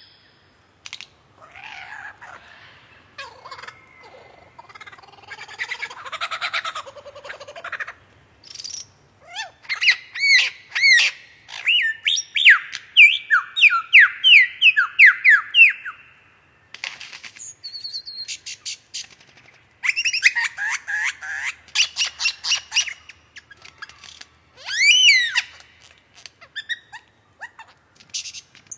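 A bird singing a long, varied song of quick downward-sweeping chirps, sharp clicks, whistles and harsh raspy notes, in phrases broken by short pauses.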